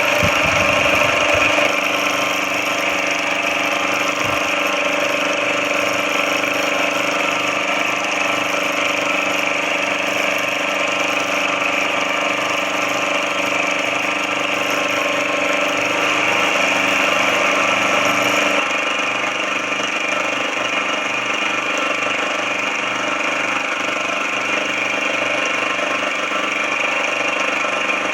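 A benchtop machine tool running steadily with a constant motor whine and hum. Its tone changes abruptly about 18 seconds in.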